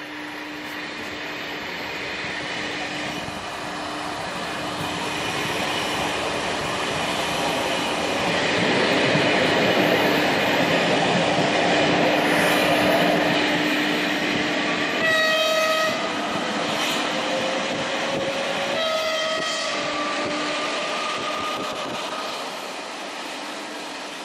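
Passenger train running along the line, heard from on board: a continuous rolling rush with a steady hum, swelling louder toward the middle. Two short horn blasts on one pitch, about four seconds apart, sound in the second half before the sound fades.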